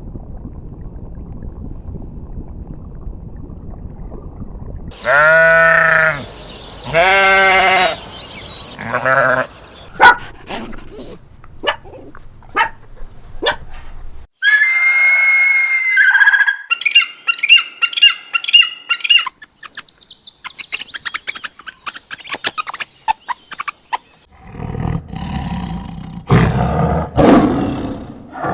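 A run of different animal calls, one after another. A low rumble comes first, then two long wavering pitched calls about five and seven seconds in, and a high clear call followed by a fast trill in the middle. A louder, rough call comes near the end.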